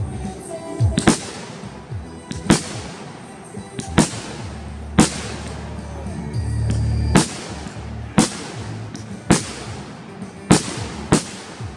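Consumer aerial fireworks going off shot after shot: about nine sharp bangs, roughly one a second, with music playing underneath.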